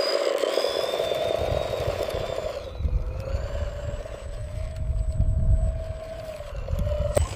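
Small electric motor of a radio-controlled construction model whining steadily, its pitch drifting slightly, over low rumbling, with a sharp click near the end.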